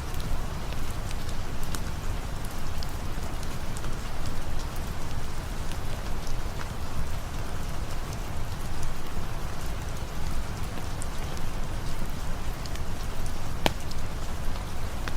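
Steady rain falling, with scattered sharp drip ticks through it and one louder tick near the end.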